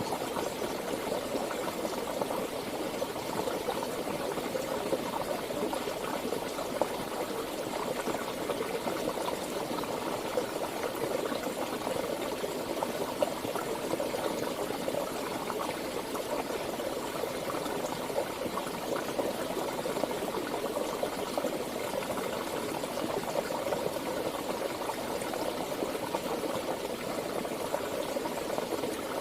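Running water from a stream flowing and gurgling steadily, with small irregular splashes.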